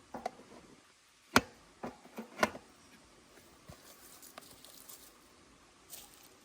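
A few sharp knocks and clicks of objects being handled, the loudest about one and a half seconds in and a quick cluster of three shortly after. Faint light ticks and rustles follow.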